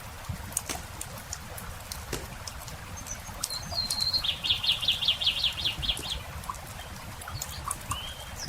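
Campfire crackling with scattered small pops, over a low, even rumble. Partway through, a songbird sings a short phrase: a held note, then a quick trill of about ten repeated notes. A brief rising call follows near the end.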